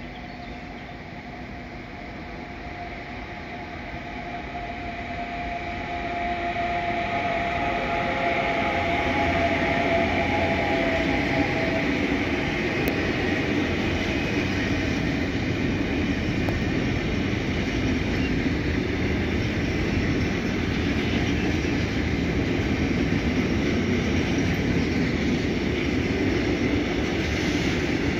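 Freight train passing: the electric locomotive approaches, growing louder over the first several seconds, then a long line of intermodal wagons loaded with trailers and containers rolls by with a steady, even noise of wheels on the rails.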